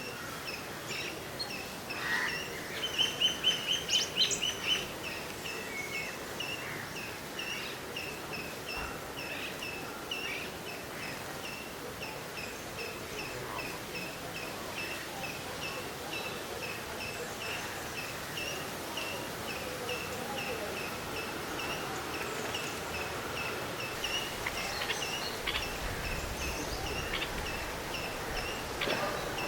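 Birds calling outdoors: one high, thin chip repeated about twice a second throughout, a louder run of quick calls near the start, and other scattered chirps over a steady background hiss.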